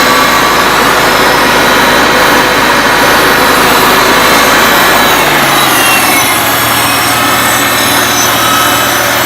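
1975 Farmall Cub's four-cylinder gasoline engine running at full throttle, then dropping to a lower, steadier speed a little past halfway.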